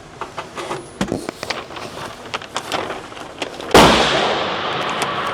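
Scattered sharp clicks and handling knocks, then a single loud rifle shot about three and a half seconds in, its echo dying away slowly over the next second and a half.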